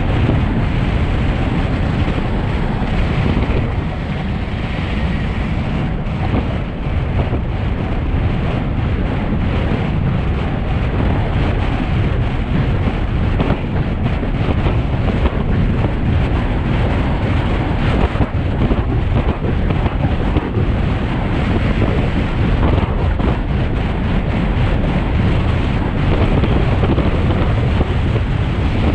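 Wind rushing over the microphone of a camera on a road bike descending a mountain pass at speed: a loud, steady rush of air noise.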